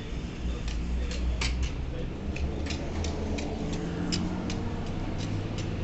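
Irregular sharp clicks and taps, a few a second, over a steady low mechanical hum.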